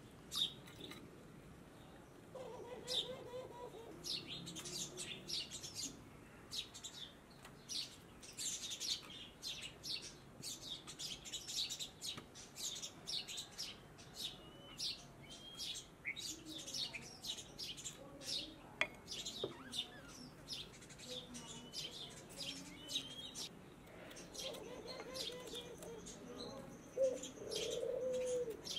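Many small birds chirping in quick, short, high calls, with a few lower pitched animal calls near the end.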